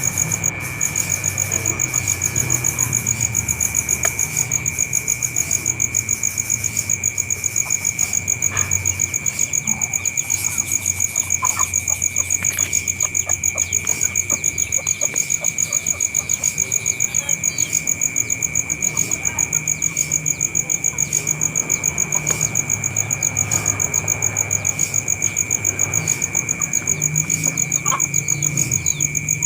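Insects, cricket-like, trilling steadily in two high tones with a rapid, even pulse, and a few faint short calls now and then.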